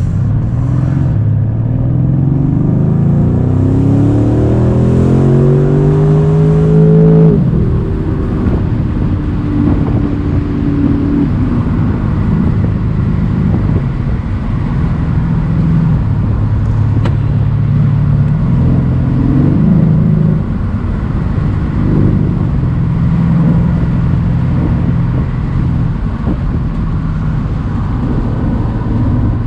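Mercedes-AMG C63's twin-turbo V8 pulling hard, its pitch rising steadily for about six seconds before falling sharply, then running at a steadier cruise with small rises and dips in engine speed.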